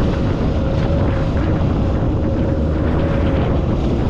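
Jet ski running steadily at speed: a constant engine whine over heavy wind noise on the microphone and rushing water.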